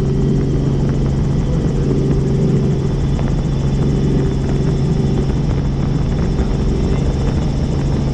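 Helicopter turbine and rotor heard from inside the cabin in steady cruising flight: a loud, even low drone with a fast rotor beat running through it.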